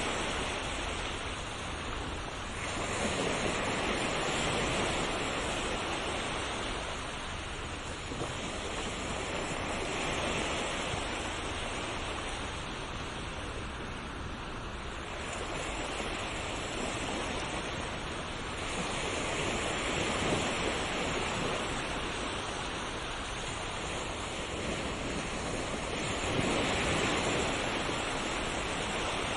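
Ocean waves breaking and washing on a shore: a continuous rush of surf that swells and eases every several seconds.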